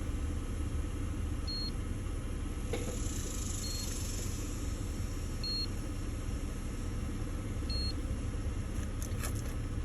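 A 2009 Mercury Sable's 3.5-litre V6 idling steadily, running smoothly now that the cylinder 2 misfire is cured by a new spark plug and ignition coil. Four short high beeps sound about two seconds apart over the idle.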